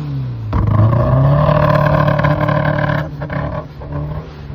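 Subaru car engine being revved through its exhaust: the revs jump sharply about half a second in, hold steady for a couple of seconds, then drop back around three seconds in and settle lower.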